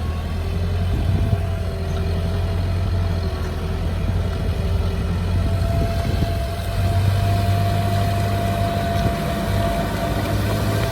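Heavy diesel earthmoving machinery running steadily: a deep engine drone with a thin steady whine above it.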